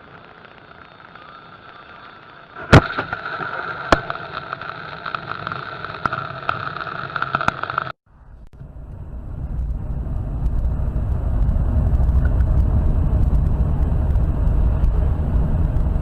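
A car crash recorded from inside a car: a loud bang about three seconds in, a second sharp knock a second later, and scattered clattering over the cabin hum. After a sudden cut, a car's engine and road rumble swell up and run steadily.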